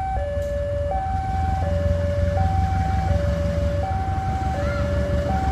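Two-tone electronic warning alarm alternating between a high and a low note, each held about three-quarters of a second, over the steady low rumble of a diesel train.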